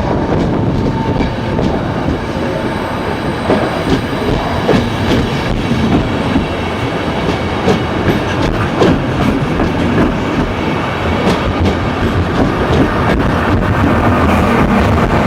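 Passenger train pulling out of a station behind E402B electric locomotives, its coaches rolling slowly past with a steady rumble and irregular clicking of wheels over rail joints and points.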